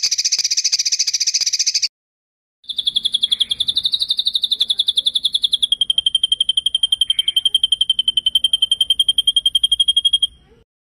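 Songbird's rolling trill, the kind of 'roll' song used in songbird contest training. A short buzzy trill comes first; after a brief gap a long, rapid trill of about ten notes a second follows, dropping slightly in pitch partway through and lasting about seven seconds.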